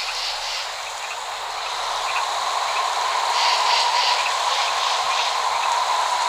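Steady rain falling, an even hiss that grows gradually louder, with a constant thin high drone and small clusters of repeated chirps over it.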